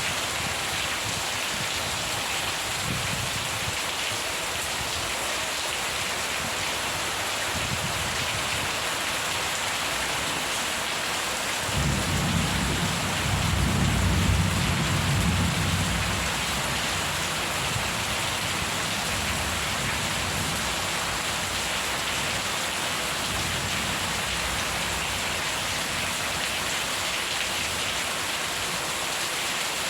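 Steady heavy rain falling, with a roll of thunder that breaks in suddenly about twelve seconds in, swells for a few seconds and fades away; fainter low rumbles come earlier.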